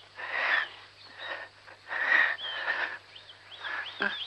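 Small birds chirping over and over in short rising-and-falling notes, with several louder harsh, rasping sounds of about half a second each.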